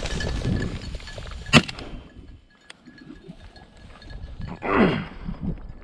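A single sharp gunshot about a second and a half in, most likely a shotgun fired at a flushed bird, followed near the end by one loud cry sliding steeply down in pitch.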